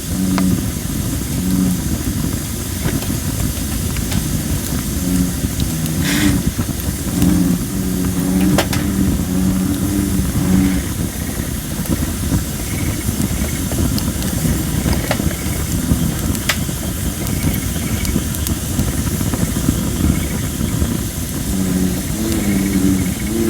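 Wood fire of thin, under-dried red robin (Photinia) branches burning, with scattered sharp crackles and pops. Bullfrogs call close by in low, droning croaks that come in repeated runs.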